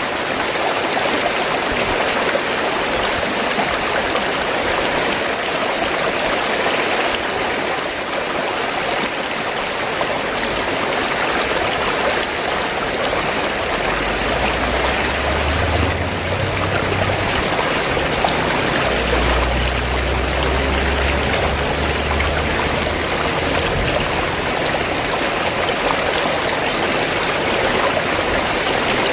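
Fast-flowing stream water gurgling and rushing steadily. A low rumble comes and goes in the middle.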